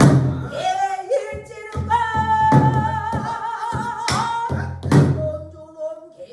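A pansori singer holds long notes that waver in pitch, accompanied by sharp strokes on the buk barrel drum.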